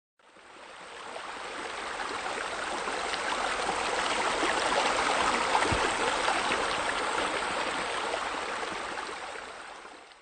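Water from a swimming-pool waterfall feature splashing steadily into the pool. It fades in over the first couple of seconds and out near the end, with a brief low bump about halfway.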